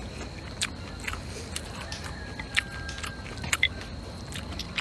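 Close-up chewing of stir-fried rice noodles: scattered wet mouth clicks and smacks, about one every second.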